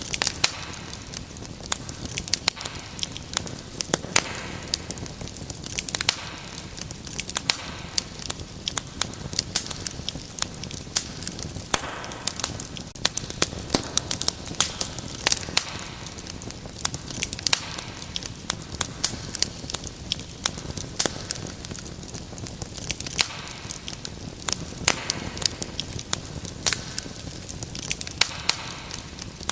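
Wood fire crackling in a fireplace: irregular sharp pops and snaps, several a second, some louder than others, over a steady low hiss of burning.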